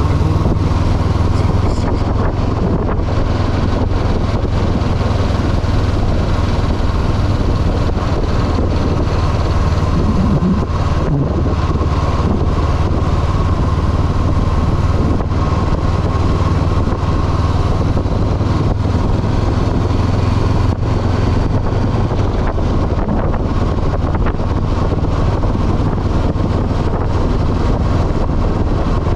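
2022 Honda CB500F's parallel-twin engine running steadily while the bike is ridden.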